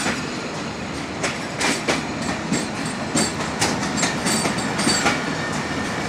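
Pakistan Railways passenger coaches rolling past as the train pulls out of the station: a steady rumble with sharp wheel clicks over the rail joints, coming irregularly about every half second.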